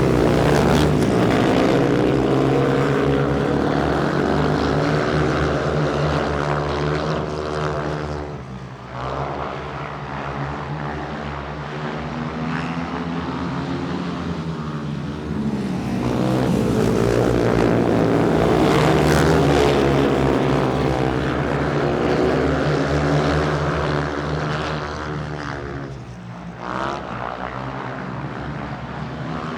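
A motorsport engine runs continuously, swelling and fading in loudness while its pitch glides up and down. It drops away briefly about nine seconds in and again near the end.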